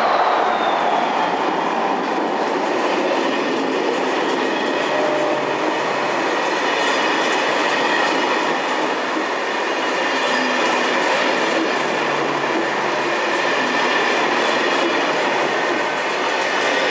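Corail passenger coaches rolling past close by, with a steady rumble of wheels on the rails and scattered clicks as the wheels cross rail joints.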